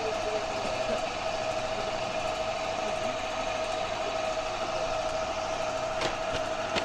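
Motorcycle engine idling steadily, with a constant high whine over it and two faint clicks near the end.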